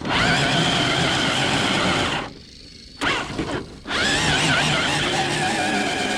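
Electric RC truck motors and gearboxes whining, the pitch wavering with throttle as the trucks drive through snow; the whine cuts out a little after two seconds in, then returns.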